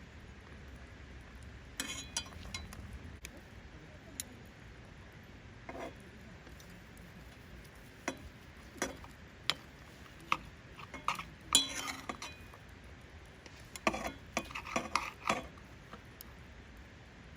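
Utensils clinking and clattering against cookware and dishes, in irregular clusters of sharp taps with pauses between.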